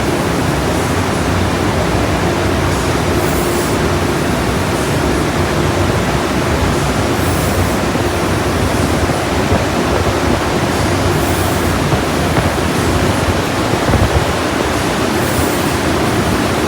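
Ryko SoftGloss XS 2 automatic car wash running: a loud, steady rush with a faint hum under it and a brief high hiss about every four seconds.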